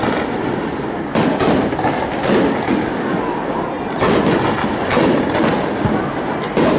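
Aerial fireworks bursting overhead: several sharp booms about a second apart over a continuous crackle and rumble.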